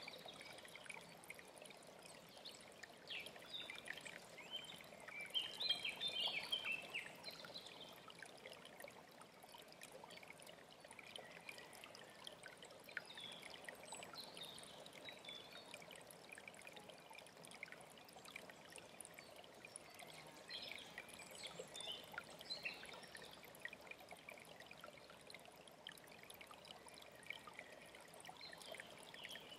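A mountain stream running steadily, with songbirds chirping and singing over it in short phrases, busiest about six seconds in.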